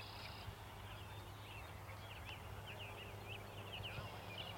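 Faint bird chirps, many short separate calls, over a steady low hum.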